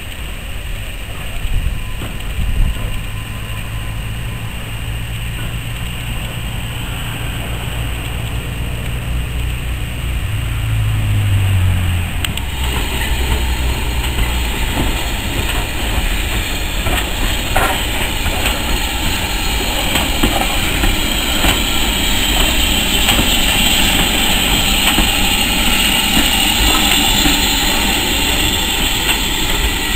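Passenger train coaches rolling along the rails, with a steady low engine drone at first. About twelve seconds in, it changes to a louder, hissing rolling noise with occasional clicks from the wheels.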